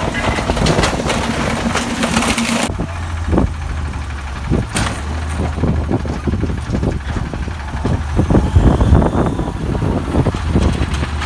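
Refuse truck's diesel engine running at idle. About three seconds in the sound changes abruptly to a deeper steady hum with many short low thumps.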